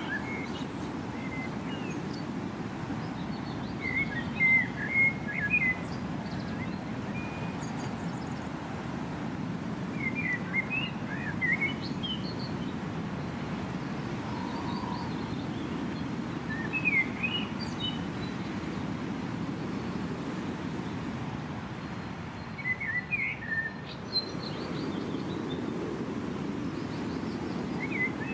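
A bird singing short chirping phrases every five or six seconds over a steady low rumble.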